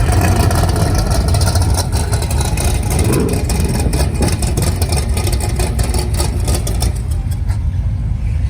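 Loud car engine running hard, with a rapid crackling over it for much of the time.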